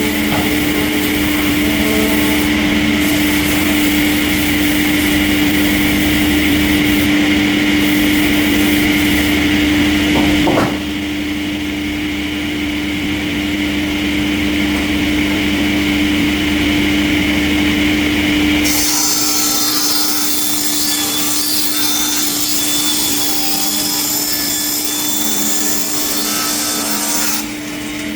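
Sawmill saw cutting through timber over a steady machine hum. About eleven seconds in there is a sharp click, and about nineteen seconds in the low rumble drops away and a high hiss takes over.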